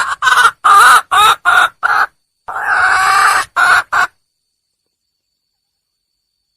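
Red junglefowl hen calling: a long call, a quick run of five short clucking notes, another long call, then two short notes. The calling stops dead about four seconds in.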